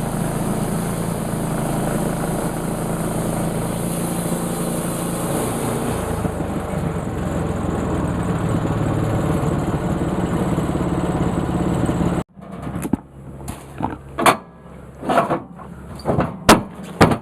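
Sawmill engine running steadily, its note changing about halfway through, then cutting off abruptly. A series of sharp knocks and clacks follows.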